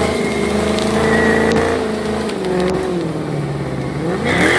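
Car engine running hard, its pitch easing down through the middle, then revving sharply upward near the end.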